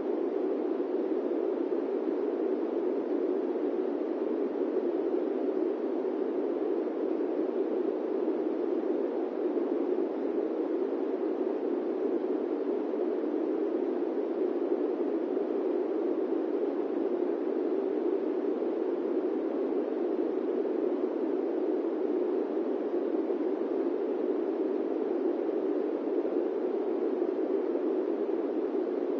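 Airplane-cabin white noise: a steady, even hiss pitched low-mid, with no tones, rhythm or changes.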